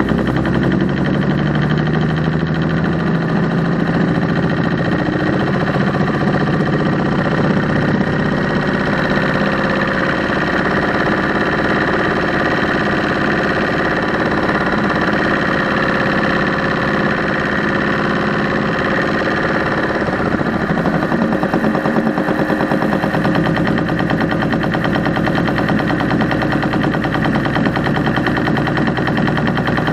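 Engine running with a rapid mechanical ticking clatter from the top end. The owner suspects a lifter/rocker tick, the mechanical fuel pump, or a tired valve spring.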